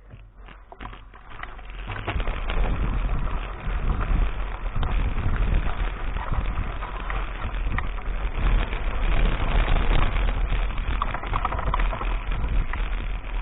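Mountain bike riding over a rough dirt track, heard through an action camera: tyre noise and rattling of the bike, with wind rumbling on the microphone. It gets much louder about two seconds in and stays loud.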